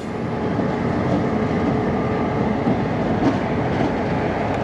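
EMD GP38-2 diesel locomotive with its roots-blown 16-cylinder 645 engine running, giving a steady rumble along with rail noise.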